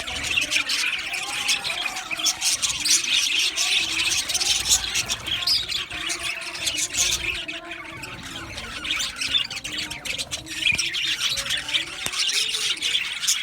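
A flock of male budgerigars chirping and chattering continuously, many birds calling over one another.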